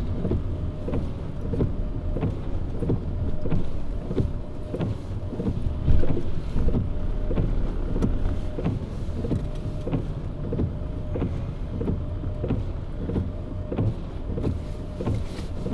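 Car driving, heard from inside the cabin: a steady low engine and road rumble with a constant whine, and light ticks two to three times a second.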